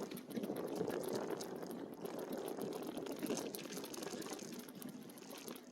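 Bike tyres rolling along a dirt trail, a steady, irregular crunching rumble.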